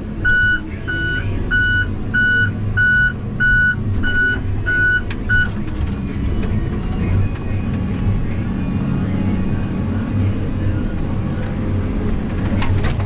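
A vehicle's back-up alarm beeping, about nine evenly spaced beeps at roughly one and a half per second, stopping about five seconds in. A low engine runs underneath throughout.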